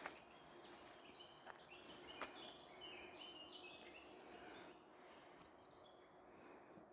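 Faint birdsong: many short, high whistled notes at shifting pitches, thick for the first few seconds and thinning out after, with a few sharp clicks over a soft hiss.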